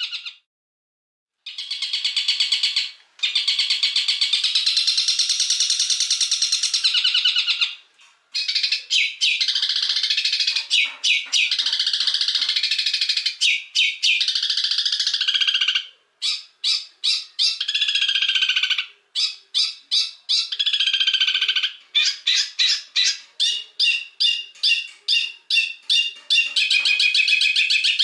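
Songbird song in a masteran (bird-training song compilation): fast, high chattering trills and whistled phrases. From about halfway on it breaks into rapid runs of short repeated notes. The song stops abruptly several times, with a silent gap of about a second just after the start.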